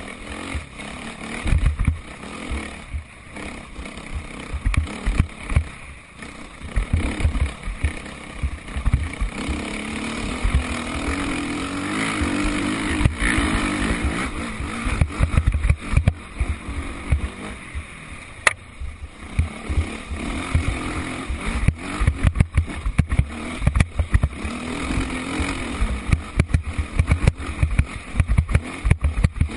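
Motocross motorcycle engines running and revving round the track, growing louder for a few seconds around the middle and again near the end.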